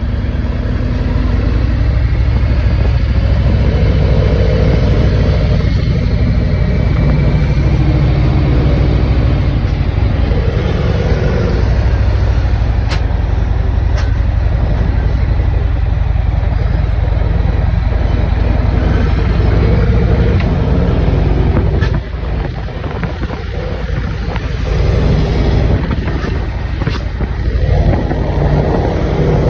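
Scania truck's diesel engine running through an exhaust fitted with a diffuser tip: a loud, steady, deep sound that drops suddenly in level about 22 seconds in.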